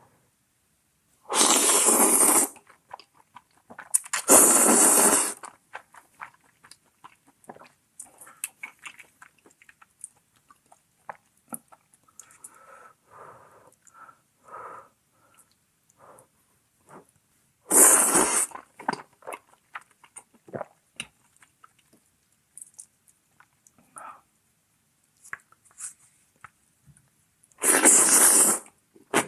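Loud slurping of hand-cut noodle soup (kalguksu), four long slurps of about a second each, with quieter chewing and small wet mouth clicks between them.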